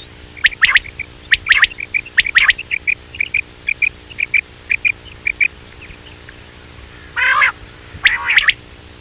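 Quail calling: sharp, quick notes in groups of about three, then a run of softer short notes repeating about three times a second, and a harsher, fuller call about seven seconds in, followed by more sharp notes. This is a quail call recording of the kind played as a lure for quail hunting, over a faint steady hum.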